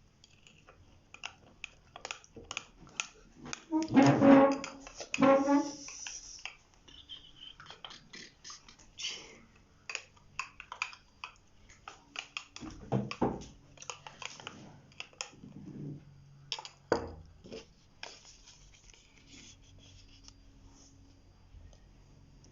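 Many small clicks and taps, as of objects being handled, with a loud pitched blare in two parts about four seconds in and a few low thumps later.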